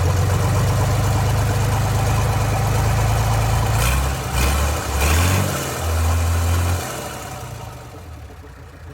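Hino H07D straight-six diesel engine running, with a short rev about five seconds in. The sound then dies away over the last two seconds.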